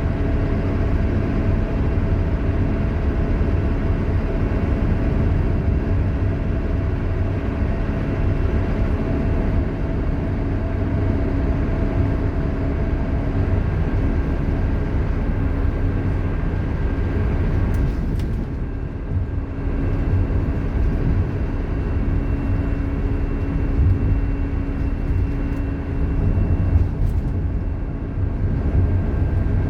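Scania K230UB Omnilink bus running, with a loud, steady whine from its ZF Ecomat automatic gearbox over the engine. The sound dips briefly about two-thirds of the way through, then a new, higher whine sets in.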